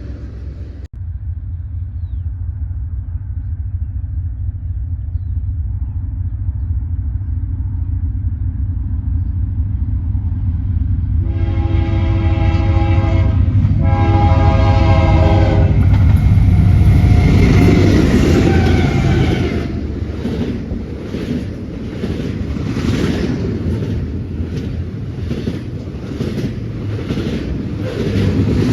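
Diesel freight train running with a steady low engine rumble. About eleven seconds in, its air horn sounds two long blasts, and then the passing train's wheels clatter over the rail joints at about one clack a second.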